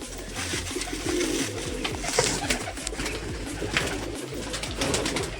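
Pigeons cooing, with repeated gritty scraping and rustling as coarse sand (moram) is poured and stirred by hand in an old lid.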